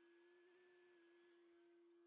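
Near silence, with only a faint steady hum at a single pitch.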